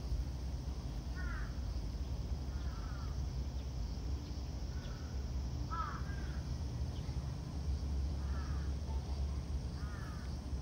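A bird calling in the background: about five short calls spaced one to three seconds apart, over a steady low rumble.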